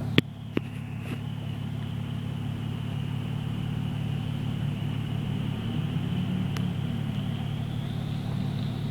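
Car engine idling, a steady low hum heard from inside the cabin, with a faint steady high whine over it. A few sharp clicks come in the first second and another about six and a half seconds in.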